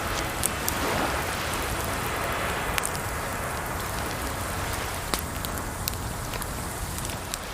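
Wood fire crackling, with sharp pops every second or so, over a steady rush of running water.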